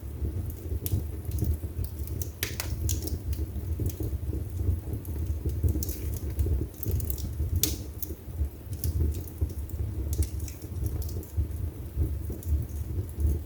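Wood burning in a fireplace: irregular crackles and pops over a steady low rumble of the flames, with two louder pops about two and a half and seven and a half seconds in.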